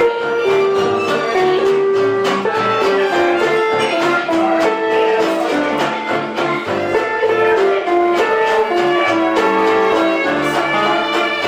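Live band playing gypsy-style music: a melody of held notes moving step by step over a steady rhythmic accompaniment.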